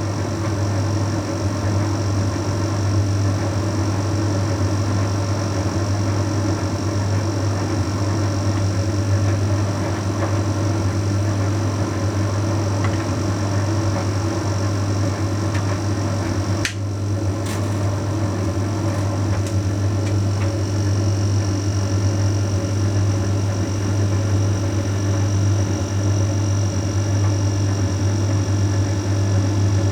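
Bosch Series 6 heat pump tumble dryer running steadily mid-way through its Shirts cycle: a constant low hum with a faint high tone above it, and a brief click about 17 seconds in.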